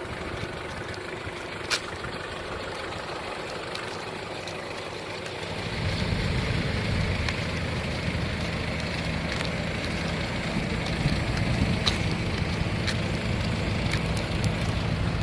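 Hyundai Grace van's 2.5-litre turbo-diesel engine running steadily at idle; about halfway through its deep low running note comes in much louder and stays, with a few light clicks on top.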